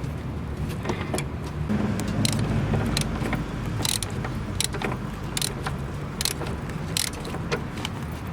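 Scattered light metallic clinks and clicks of hand tools and loose suspension bolts being handled while a car's lower control arm is removed, about ten over several seconds. They sit over a steady low rumble that swells for a second or so about two seconds in.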